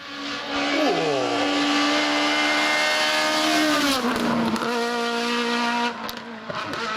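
Rally car engine running hard at high, steady revs, then dropping in pitch about four seconds in and holding at the lower note.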